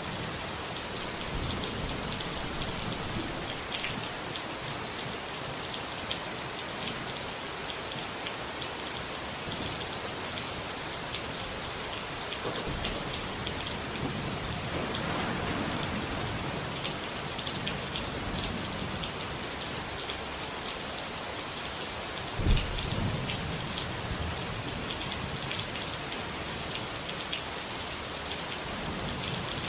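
Steady heavy rain pattering, with low rolls of thunder in the middle and a sharp, loud thunderclap about three quarters of the way through.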